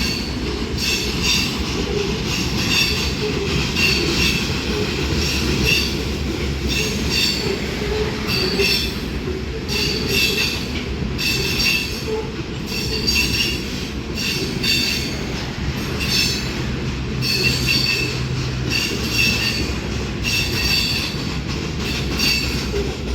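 Freight train cars rolling past: a steady low rumble with short high-pitched wheel squeals repeating about once or twice a second as the wheels pass.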